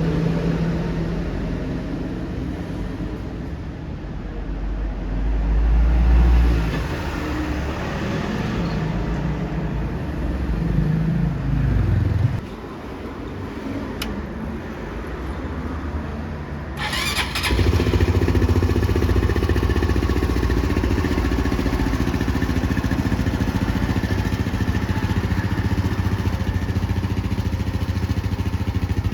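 Honda CT125 Hunter Cub's 125 cc air-cooled single-cylinder engine breathing through an aftermarket Takegawa exhaust. The engine runs unevenly for the first dozen seconds, rising in pitch then dropping away. About seventeen seconds in a brief sharp burst is heard, and the engine then settles into a steady idle.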